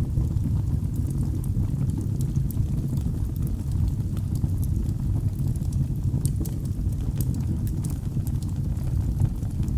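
Wood fire in a fireplace crackling, with frequent small sharp pops over a steady low rumble of the burning logs.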